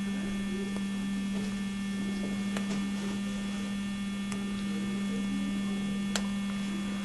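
Steady electrical hum with a strong low tone and fainter higher tones, broken by a few faint clicks.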